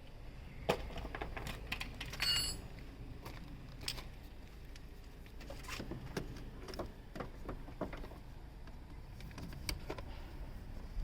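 Metal hand tools clinking and tapping against engine-bay metal, irregular clicks with one clear ringing clink about two seconds in, over a low steady hum.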